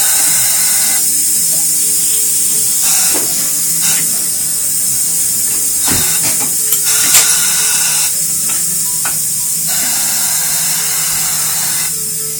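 Steady high hiss of compressed air in a tyre shop, with a few sharp knocks of tools, over background music.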